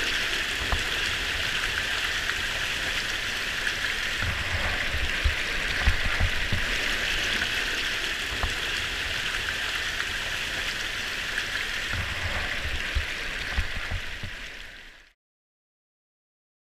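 Steady hiss of falling rain, with a few faint low thuds here and there. It fades out near the end.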